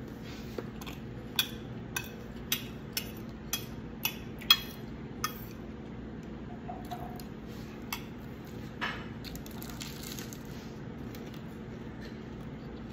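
Close-up chewing of crisp lettuce: sharp crunches about twice a second for the first five seconds, then a few scattered ones, over a faint steady hum.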